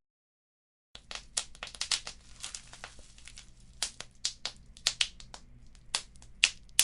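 Fireplace wood fire crackling, with frequent irregular sharp pops and snaps over a faint low rumble of burning. It starts about a second in, after a brief total silence.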